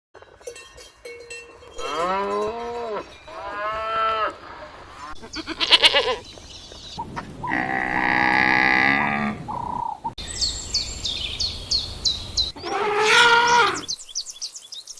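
A run of separate farm-animal calls cut one after another: mooing and bleating calls, including one long drawn-out call near the middle, and a quick series of short high chirps about two-thirds of the way through.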